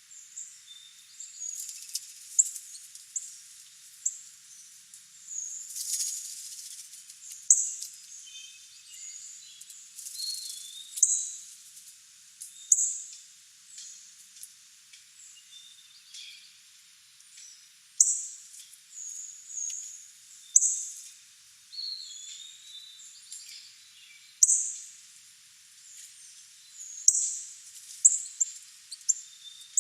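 Wild songbirds chirping and calling: many short, high, sharp chirps every second or two, with a few lower warbled notes mixed in.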